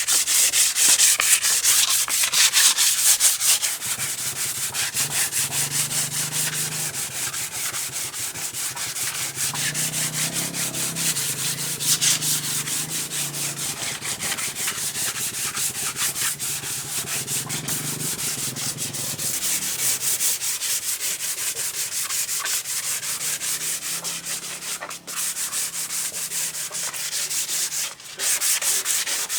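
Sanding by hand: quick, even rubbing strokes of abrasive on a surface, with two short breaks near the end.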